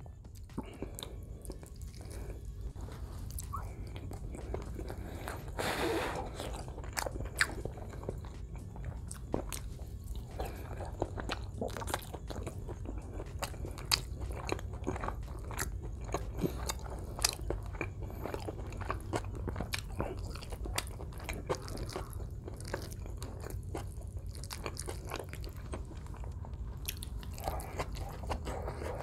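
Close-miked chewing of a mouthful of rice and meat, eaten by hand, with many short wet mouth clicks and smacks over a steady low hum.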